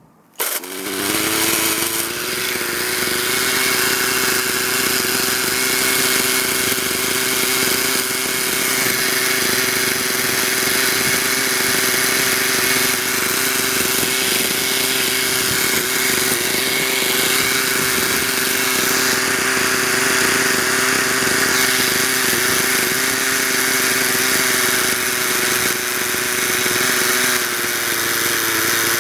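Small engine of a radio-controlled model helicopter running steadily at high, even speed. It cuts in suddenly about half a second in.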